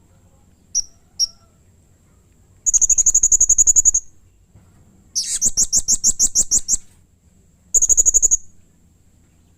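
Blue-crowned hanging parrot calling: two short high chirps, then three bursts of rapid, harsh chirping, the second the longest. These are excited, agitated calls.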